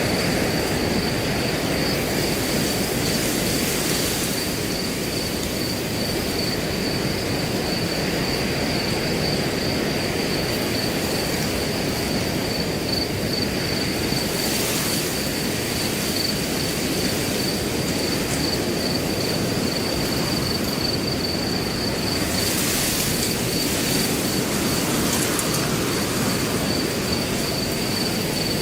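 Wind blowing steadily through grass, with a cricket trilling continuously at a high pitch. Brief swells of hissy rustling come about 4, 15 and 23 seconds in.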